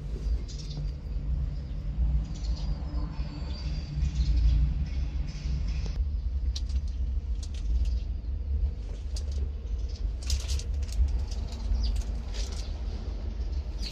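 A 50 hp tractor's Yunnei diesel engine running with a steady low rumble, with light clicks and rattles scattered through the second half.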